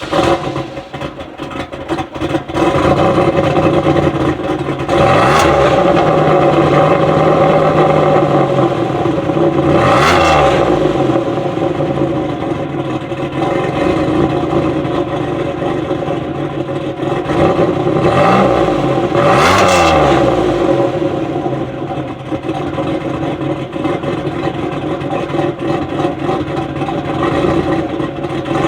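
Engine of a 2007 Pontiac Grand Prix GT with an aftermarket cam, idling just after start-up on what is most likely the factory exhaust. It is revved four times in short blips, about 5, 10, 18 and 19.5 seconds in, dropping back to idle each time.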